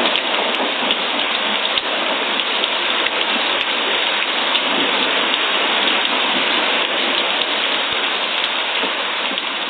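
Steady rain falling on a surface, a dense, even patter of many drops.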